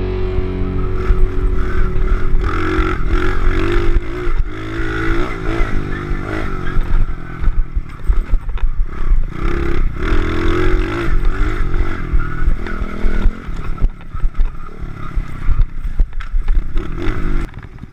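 Small 110cc pit bike engine revving up and down, over and over, as it is ridden hard, with wind buffeting and rattling clatter over the top.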